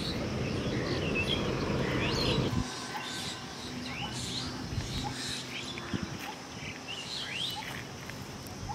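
Small birds chirping repeatedly in short rising calls. Under them is a low rumble that cuts off suddenly a little over two seconds in.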